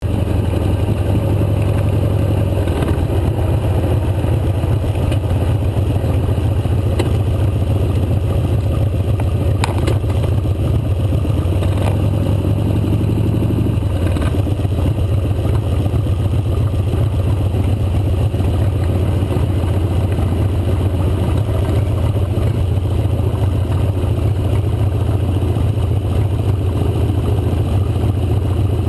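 Motorcycle engine running steadily during a ride, with a constant low rumble. Its note rises and then drops about 14 seconds in, with a smaller change about 3 seconds in.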